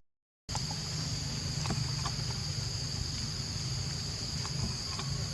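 Steady high insect drone, with a low hum beneath it and a few faint clicks; the sound drops out completely for a moment at the very start.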